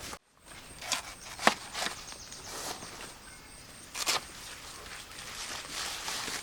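A handful of sharp knocks and snaps, about four spread over a few seconds, over a steady outdoor background hiss.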